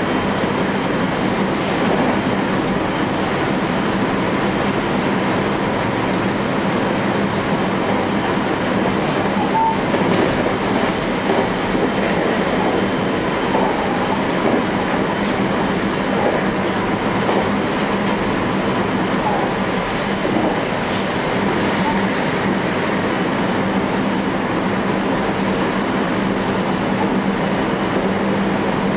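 JR electric train running steadily along the track, heard from inside the front of the train: continuous wheel-on-rail running noise with a steady low hum.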